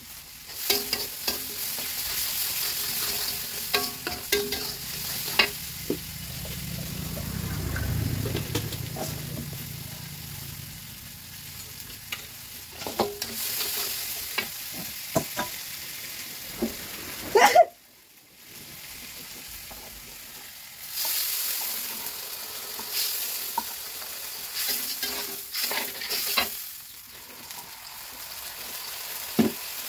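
Food sizzling in a steel wok on a gas stove, with a metal spatula scraping and clinking against the wok as it is stirred. The sound drops out briefly about two-thirds of the way through.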